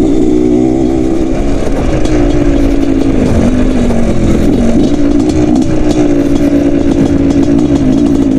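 Motorcycle engine running under load as a dirt bike is ridden around a dirt track, its note holding fairly steady and dipping briefly twice as the throttle is eased and opened again.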